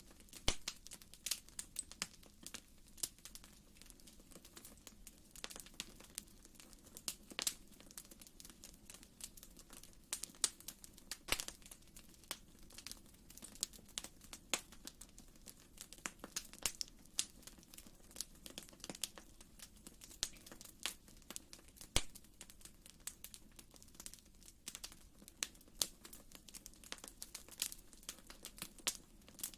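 Wood fire in a fireplace crackling: frequent, irregular sharp pops and snaps over a faint low rumble.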